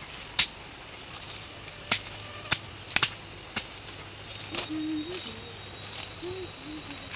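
Sharp, isolated cracks, about six spread unevenly across a few seconds, like stems or sticks being snapped or struck in bamboo undergrowth. A faint steady high buzz joins about halfway through.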